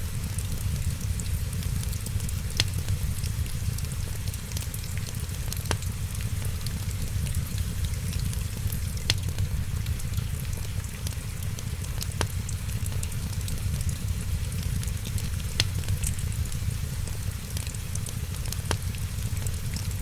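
Wood fire in a fireplace crackling steadily over a low rumble, with a sharp pop about every three seconds.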